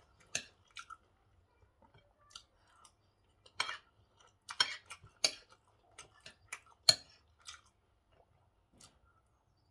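Close-up eating sounds: chewing on a mouthful of rice and pork stew, with scattered sharp clicks and taps. The sharpest click comes about seven seconds in.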